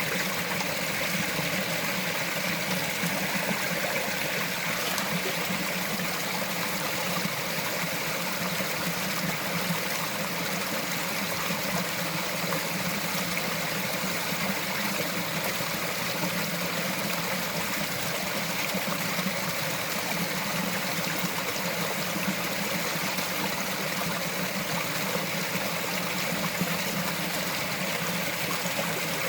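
Small mountain forest stream running over rocks: a steady, unbroken trickling and burbling of water.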